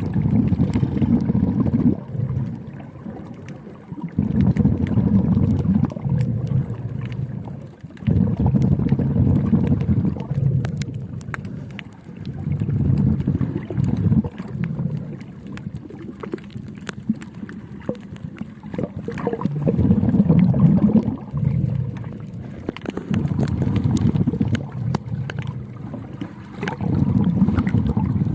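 Underwater sound: a low bubbling rumble swelling and fading about every three to four seconds, like a swimmer's exhaled breath, with scattered faint clicks.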